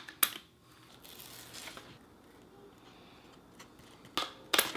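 Jessup grip tape being cut around a skateboard deck: sharp crackling cuts near the start and two more near the end, with a softer rasp about a second in.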